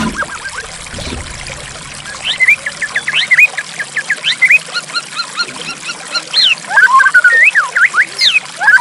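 White-rumped shama singing: rapid runs of sweeping whistled notes, starting about two seconds in and growing denser near the end, over a steady rush of flowing water.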